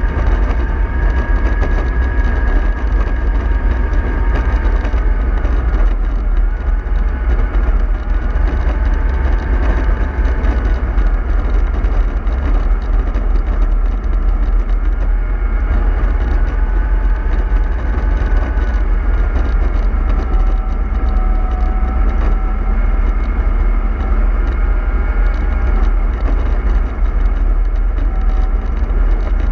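MAN 24.310 bus running along the road: a steady low engine rumble with a faint whine that drifts slowly up and down in pitch.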